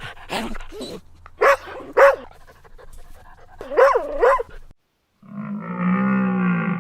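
A dog barking in a series of short barks, the loudest about one and a half, two and four seconds in. After a brief silence, music with sustained tones starts near the end.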